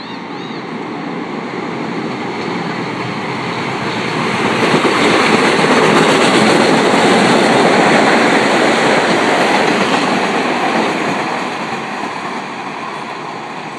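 Staten Island Railway express train passing through a station at speed without stopping: wheels rumbling and clattering on the rails, swelling to a peak as the cars go by about five seconds in, then fading.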